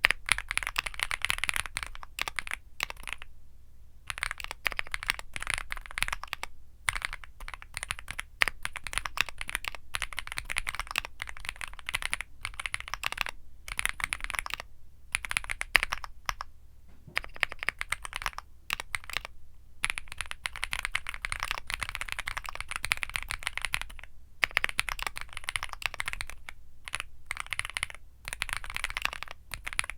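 Fast continuous typing on a Womier SK75 mechanical keyboard with Womier Mint Blizzard switches: rapid keystroke clicks with a few short pauses.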